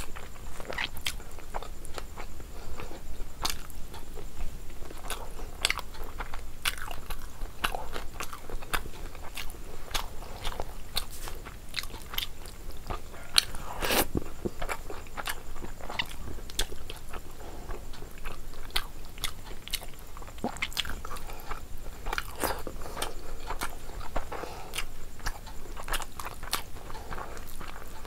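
Close-miked chewing and biting of rice and fish curry eaten by hand: an irregular run of wet mouth clicks, smacks and small crunches, with one sharper crunch about halfway through.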